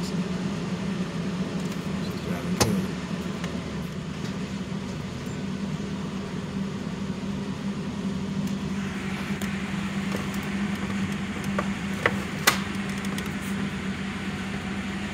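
Ford car's engine running steadily, heard from inside the cabin as a low hum. A few sharp clicks come through, one early and two close together near the end, and an airy hiss joins about nine seconds in.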